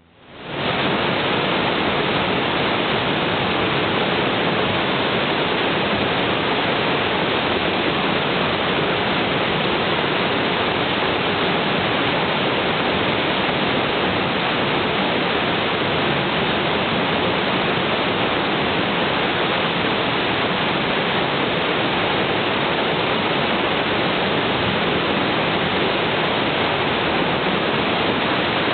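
Urami Falls waterfall pouring, a loud, even rush of falling water that fades in within the first second and then holds steady.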